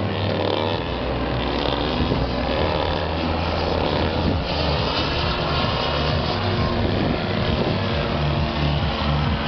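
Electric motor and propeller of a remote-control foam toy aeroplane, running steadily.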